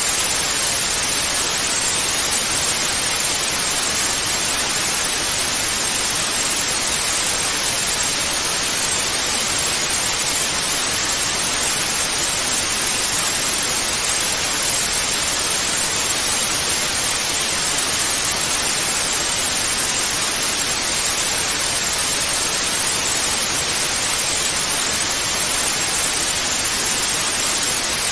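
Steady TV static hiss, white noise without changes or breaks.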